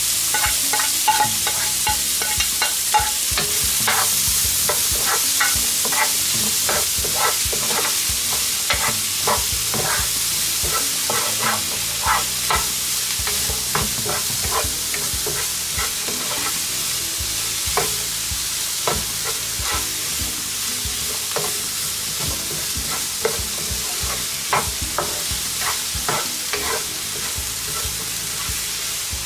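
Sliced onions and green bell peppers sautéing in butter in a frying pan: a steady sizzle with frequent short clicks and taps as they are stirred.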